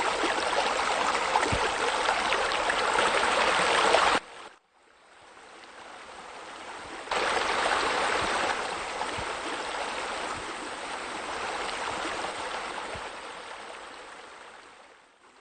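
Water from a swimming pool's waterfall splashing and rushing steadily into the pool. It cuts off sharply about four seconds in, fades back, jumps louder at about seven seconds, then slowly fades out near the end.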